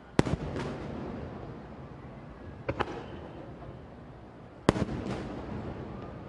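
Aerial firework shells bursting: sharp booms, each trailed by a rolling echo. Two loud bangs come just after the start, a fainter pair about two and a half seconds in, and another loud pair about four and a half seconds in.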